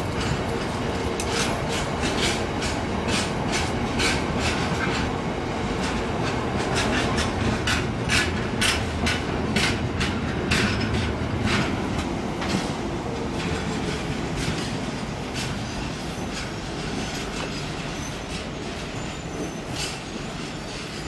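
Freight train box wagons rolling past close by, their wheels clicking over rail joints in quick irregular runs. The rumble slowly fades in the second half as the last wagon draws away.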